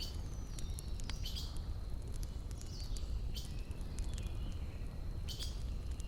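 Wood campfire crackling, with frequent sharp pops and snaps over a steady low rumble. Birds chirp in the background with short falling calls.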